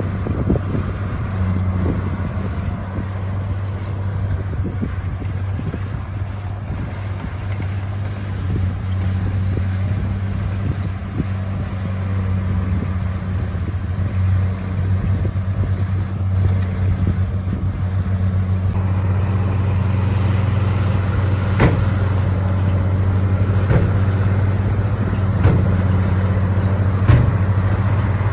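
Bulldozer's heavy diesel engine running steadily with a deep drone, with a few short knocks in the second half.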